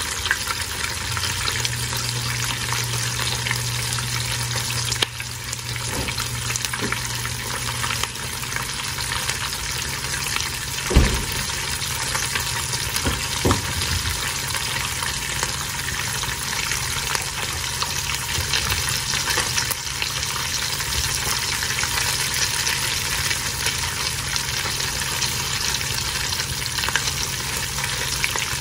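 Cheesy chicken tacos frying in oil in a nonstick frying pan, with a steady crackling sizzle. A single dull knock sounds about eleven seconds in, and a fainter one a couple of seconds later.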